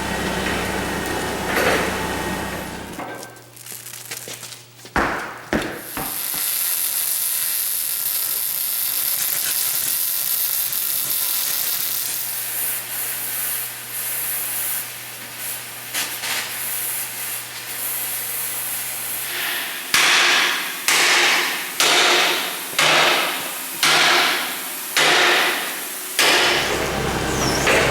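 Welding on a steel car frame: a long steady sizzle over a low electrical hum. Near the end comes a run of about six short bursts, roughly a second apart.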